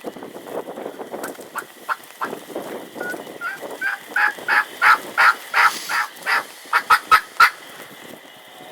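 Wild turkey hen giving a raspy plain yelp: a series of about a dozen short yelps, growing louder and quickening into a fast run near the end, bordering on an excited yelp. Wind noise in the first few seconds.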